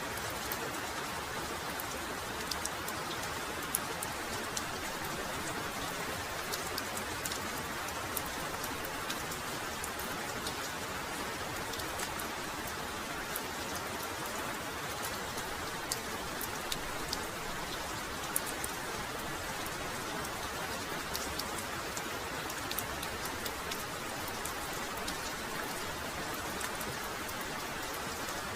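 Heavy rain falling steadily, a continuous hiss with many individual drops ticking sharply on top.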